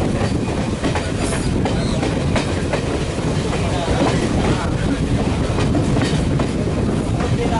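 Chennai Duronto express train running at speed along the track: a steady heavy rumble with scattered clicks of the wheels over rail joints.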